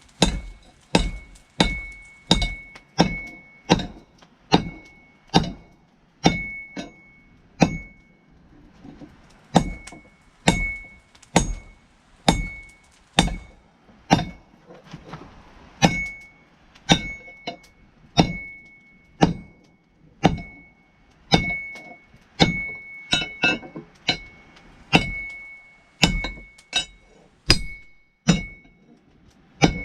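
Hand hammer striking hot steel on an anvil in a steady rhythm of about one and a half blows a second, many blows followed by a short high ring. The hammering stops for a second or so about eight seconds in, then carries on.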